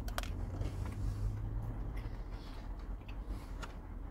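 A person chewing a mouthful of donut close to the microphone, with a few soft clicks over a low steady hum.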